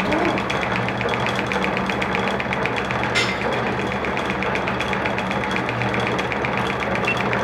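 A motor-driven shop machine running steadily, with a low hum, a fast even ticking and a single knock about three seconds in.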